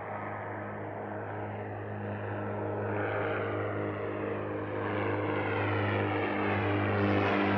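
Propeller airplane's engine droning with a steady pitch, growing gradually louder as it approaches.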